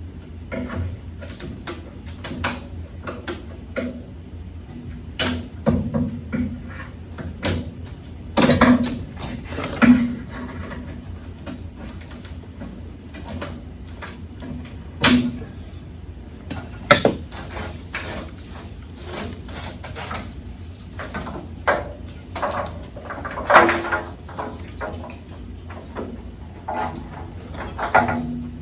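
Irregular metallic clanks, knocks and rattles of hand tools and parts being handled during work on a pickup truck, the loudest knocks about 8 and 10 seconds in, about 15 and 17 seconds in, and about 23 seconds in, over a steady low hum.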